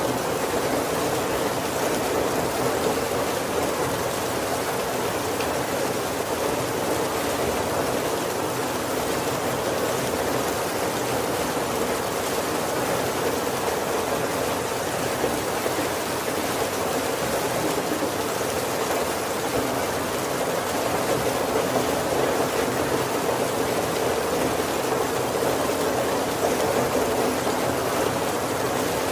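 Heavy rain falling steadily on a wooden carriage roof: a dense, even hiss with no single drops standing out.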